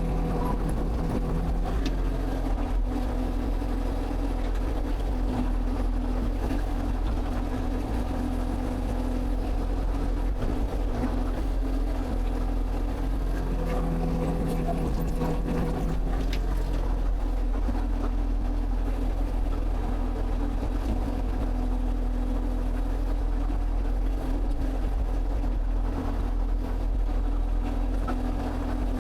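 Excavator's diesel engine running steadily under work, a constant low hum with steady tones, some of which shift in pitch for a couple of seconds about halfway through.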